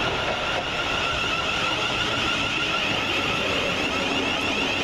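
Class 700 Thameslink electric multiple unit arriving at the platform with a steady high-pitched squeal that fades near the end, over the rumble of the train.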